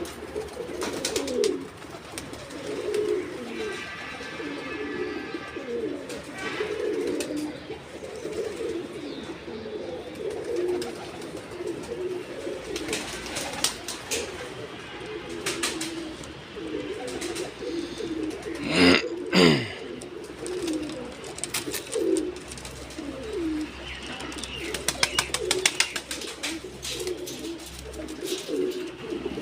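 Several domestic pigeons cooing over one another without pause, with scattered clicks and rustles. About two-thirds of the way through comes a louder falling sweep.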